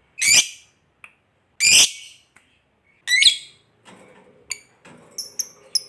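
Lovebirds calling: three loud, harsh squawks about a second and a half apart, then, from about four seconds in, a quick run of short, sharp, high-pitched chirps.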